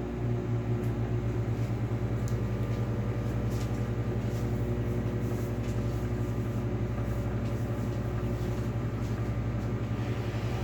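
Microwave oven running while it cooks pasta in water: a steady hum with a fast, even pulsing.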